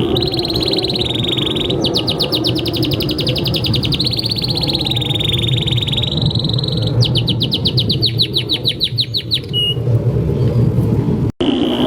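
Domestic canary singing a long continuous song: held whistled notes alternating with fast rattling trills, over a steady low hum. The song pauses briefly near the end, then starts again.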